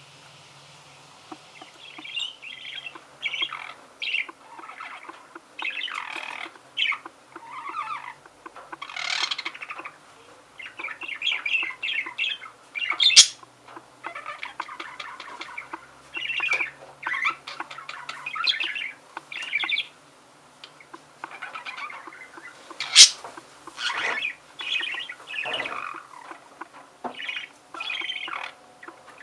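Budgerigar warbling: a long run of chattering, twittering song, with two sharp, loud squawks partway through.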